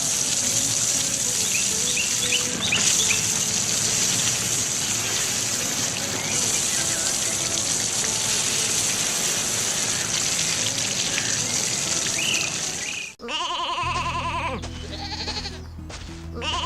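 Water gushing steadily, as when a tank is being filled, with a few faint short chirps over it. It cuts off suddenly about thirteen seconds in, and bleating starts over a steady low music tone.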